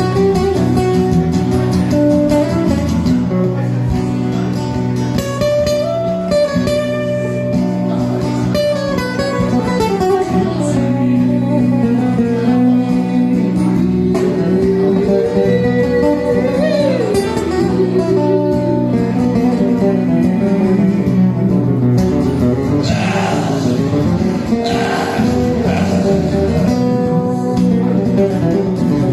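Guitar music: a plucked guitar playing a tune over steady sustained low notes.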